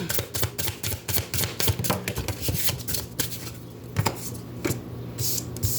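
Oracle cards being shuffled by hand: a quick, uneven run of crisp card flicks and snaps, thickest in the first two seconds and then more spaced out.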